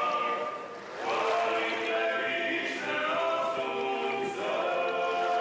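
Background music of a choir singing long held notes. The voices break off briefly and start a new phrase about a second in.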